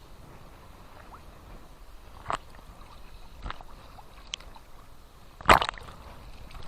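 Small Black Sea waves lapping at the shore: a low steady wash with a few sharp splashes and slaps, the loudest a little over five seconds in.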